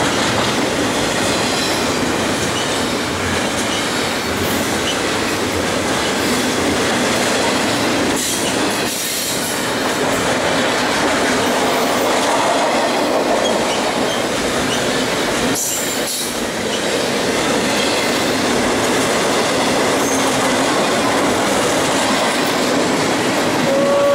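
Double-stack intermodal freight train's container cars passing close by: a loud, steady rush of steel wheels on rail with rattling from the cars, dipping briefly twice.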